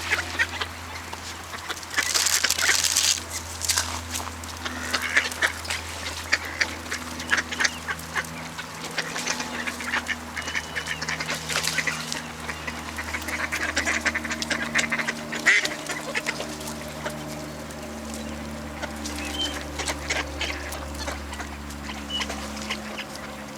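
A flock of ducks quacking and calling in many short, irregular calls, loudest and densest about two to three seconds in. A steady low hum runs underneath.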